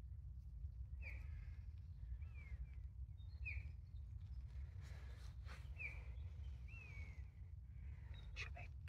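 A small songbird calling: about five short, high chirps, some slurring downward, spaced a second or more apart.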